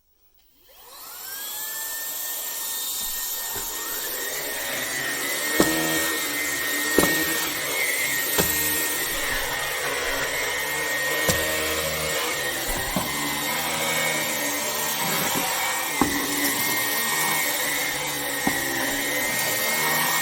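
Vax Blade 4 cordless stick vacuum cleaner switched on, its motor spinning up in a rising whine within about a second and then running at a steady high whine. From about five seconds in, sharp clicks and knocks come every second or few.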